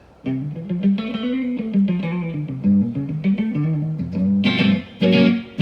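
Live guitar playing a song's intro: a melodic line after a brief hush, then fuller chords struck in rhythm from about four seconds in.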